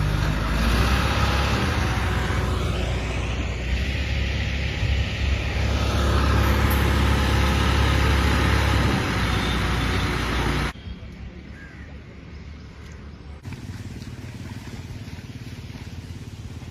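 Tractor engine running hard under load as it tries to pull out of deep mud, a heavy low rumble with broad noise above it. About eleven seconds in, the sound drops abruptly to a quieter, steadier engine sound.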